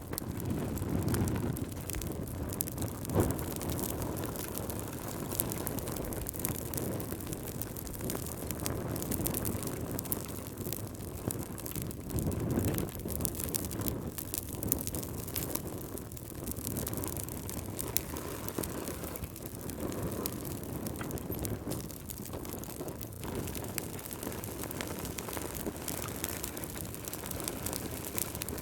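Wood fire crackling in a fireplace, with scattered sharp pops, over a low wind that swells and eases.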